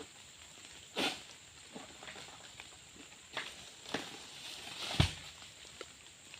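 A few scattered rustling knocks, with one heavy thump about five seconds in, the loudest sound.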